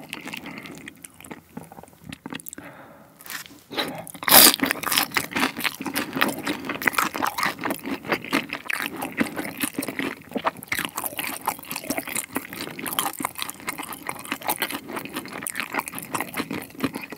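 Close-miked eating: a loud bite about four seconds in, then steady, crunchy, wet chewing of a chicken-skin dumpling whose skin wrapper is lightly crisp outside and soft inside.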